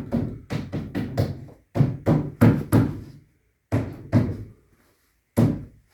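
Quick wooden knocks, about three a second for the first few seconds, then a pause and a few single knocks: a dowel-jointed wooden piece being tapped home during a test fit.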